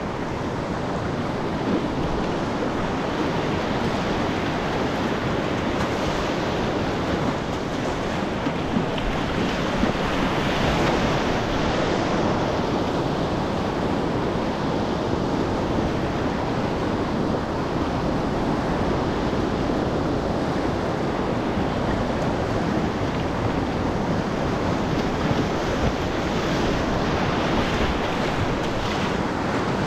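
Rushing whitewater of a class III–IV river rapid, a steady noisy wash with wind buffeting the action camera's microphone.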